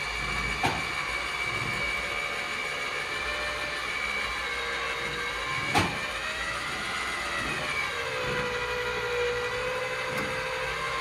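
Electric winch motor whining steadily as it pulls a vehicle up onto a trailer, with two sharp clanks, one near the start and one about halfway through.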